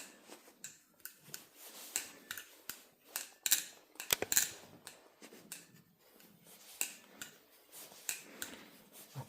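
Irregular small metallic clicks and scrapes from a steel balisong (butterfly knife) being handled, its handles, latch and pivot hardware moving as the pivot tightness is worked on.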